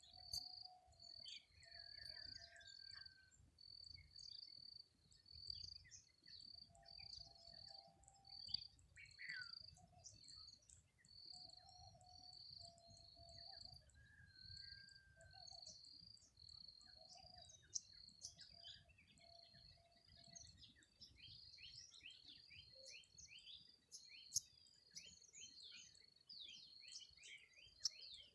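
Faint outdoor dawn chorus: an insect chirps in a steady, evenly repeated high pulse while birds call around it. The birds give short lower notes and quick chirps, which grow busier about halfway through.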